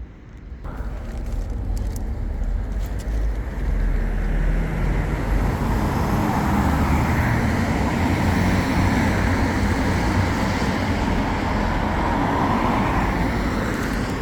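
Road traffic going past: engine rumble and tyre noise that swells from about half a second in and stays loud through the second half.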